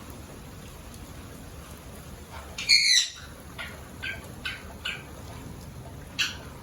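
Pet parrot giving one loud, harsh squawk about three seconds in, followed by a run of short, fainter calls about half a second apart.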